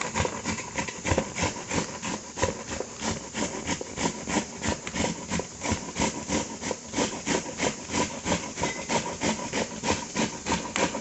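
Cabbage rubbed hard against a hand grater, in quick even strokes of about four or five a second: the scrape and shred of the leaves over the blades.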